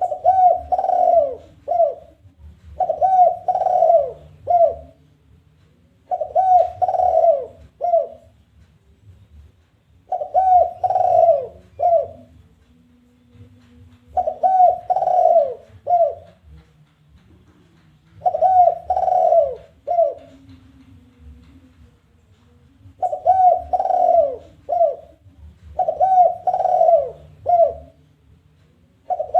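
Spotted dove (tekukur) giving its challenging call over and over, a phrase about every four seconds, eight times in all. Each phrase is a few rolling coos ending in a single short, separate final note, the 'kuk 1' call type.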